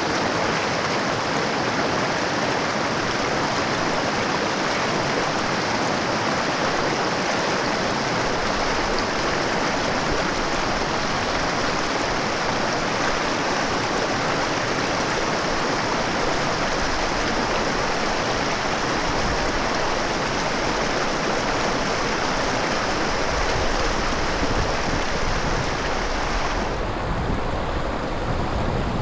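Mountain river running steadily. A deeper rumble comes in about three-quarters of the way through, and the high hiss thins near the end.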